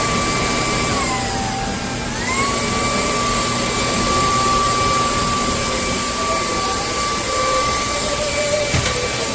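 Hoover ONEPWR Evolve Pet Elite cordless stick vacuum running with a steady high whine and rushing air. About a second in, the motor's pitch sags for a moment and then climbs back to speed. A short click sounds near the end.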